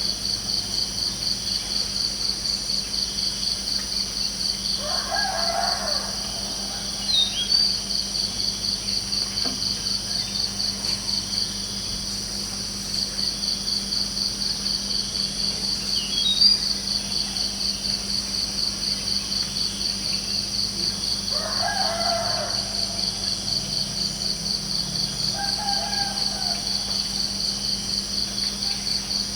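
Crickets chirping steadily in a fast, even, high-pitched trill. Twice, about five seconds in and again past twenty seconds, a lower bird call of about a second rises over it, and a few brief high bird chirps are scattered between.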